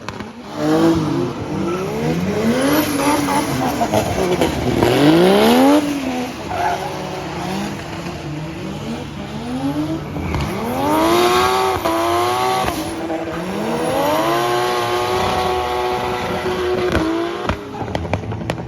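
Toyota Soarer's 1JZ straight-six revving hard, its pitch climbing and dropping again and again and held high for a few seconds near the end, with the tyres squealing as the car drifts. A few sharp cracks come as the revs drop near the end.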